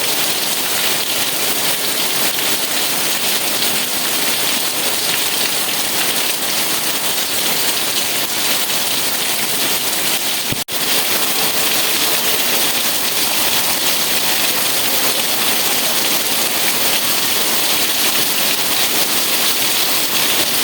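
Steady rain falling, an even hiss, with a split-second dropout in the sound about halfway through.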